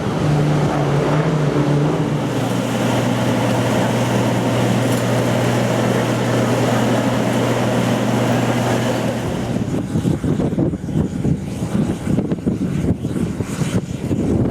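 A steady engine drone whose pitch steps down about two seconds in and stops near ten seconds, followed by gusty wind buffeting the microphone.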